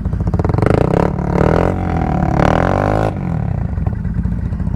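ATV engine revving hard under load, its pitch rising and falling from about half a second in, then dropping back to a steadier, lower run about three seconds in.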